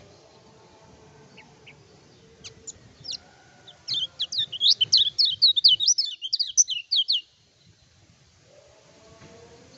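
Kecial kuning (lemon-bellied white-eye) singing: a few scattered high chirps, then a fast, loud run of sharp chirping notes for about three seconds that stops abruptly.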